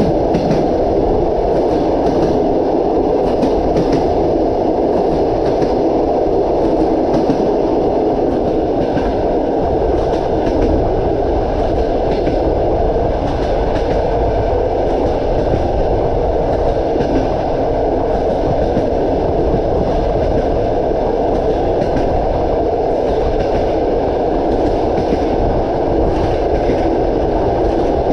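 Passenger train coach running at speed: a steady rumble of wheels on rails with rapid clickety-clack over the rail joints, the clacks thickest in the first ten seconds or so and again near the end.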